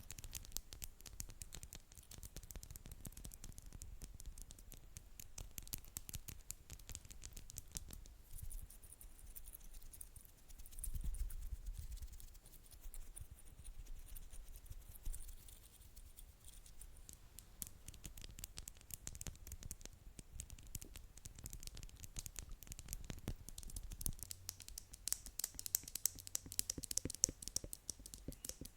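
ASMR tapping and scratching close to the microphone: a dense run of light taps and scratches, growing brighter and scratchier near the end.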